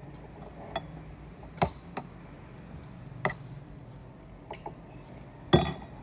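Scattered light clicks and knocks, about seven of them at uneven spacing, with a louder, slightly longer clattering knock a little after five seconds in, over a low steady hum.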